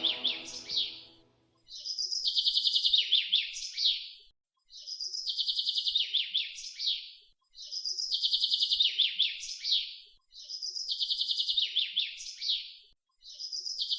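Recorded bird song: a high, rapid chirping trill ending in a few falling notes, repeated almost identically about every three seconds.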